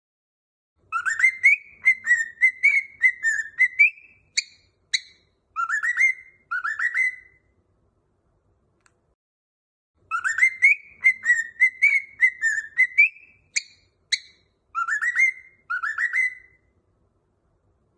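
Cockatiel whistling a short warbling tune phrase: a run of quick notes, two sharp chirps, then two rising notes. After a pause of about three seconds the same phrase comes again.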